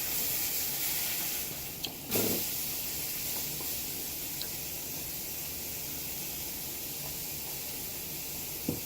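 Beef burgers sizzling in a frying pan: a steady hiss, broken by a short louder low sound about two seconds in and a few faint clicks.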